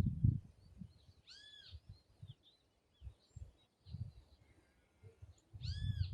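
An animal gives two short, high, arched calls about four and a half seconds apart, one early and one near the end, with faint small chirps between them, over irregular low thumps.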